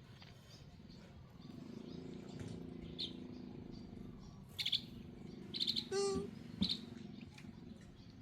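Short high chirping animal calls, a few in quick succession in the second half, with one longer squealing call about six seconds in, the loudest sound.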